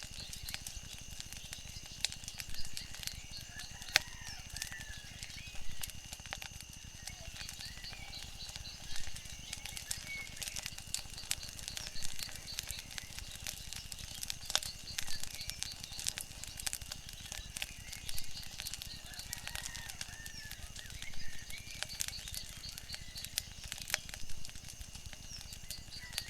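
Wood fire crackling, with frequent sharp pops over a low steady background noise. Short chirping bird calls come and go, along with steady high-pitched tones.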